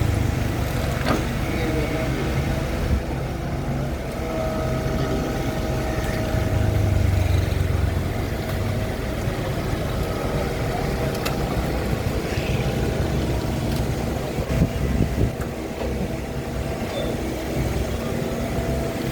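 Excavator's diesel engine running steadily with a low hum and a few held higher tones, with an occasional short knock.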